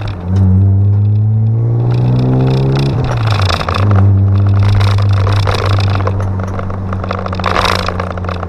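BMW E36's engine heard from inside the cabin as the car accelerates. The engine note climbs, drops at a gear change about three seconds in, then holds fairly steady under road noise.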